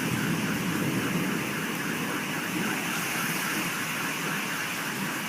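A car alarm sounding a quick, evenly repeating warble over the steady hiss of rain.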